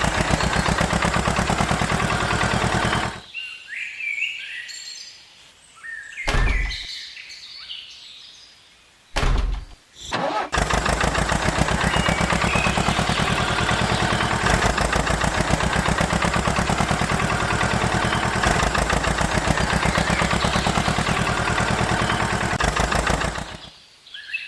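Small engine of a miniature model tractor running with a fast, even chugging. It stops about three seconds in, gives two short bursts, then starts again about ten seconds in and runs steadily until near the end. Birds chirp during the pause.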